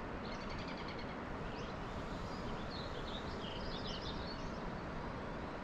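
Small birds chirping and trilling in several short phrases, over a steady rushing background noise.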